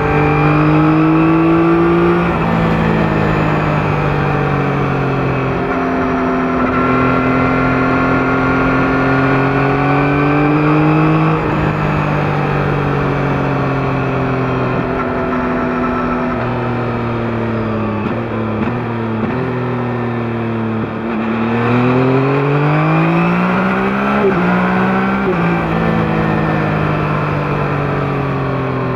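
Yamaha MT-09's three-cylinder engine through its stock exhaust while riding: the pitch climbs through each gear and drops at each upshift, falls as the throttle eases about two-thirds of the way through, then climbs again under acceleration.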